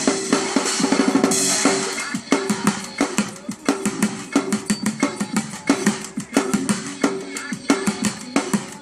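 Bucket drummer playing a fast, dense rhythm on buckets and barrels, many strikes a second, with a splashy crash about a second and a half in.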